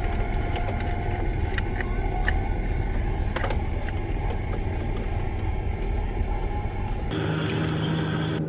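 Steady low rumble inside a car, with a few light clicks. About seven seconds in, the rumble drops away and a steady hum with hiss takes over.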